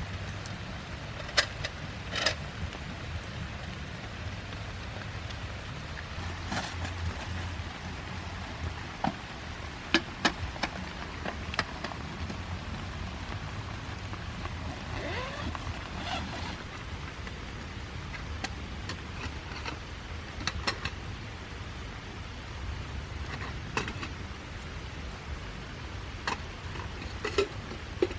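Heavy rain falling steadily, with scattered sharp taps and knocks over it.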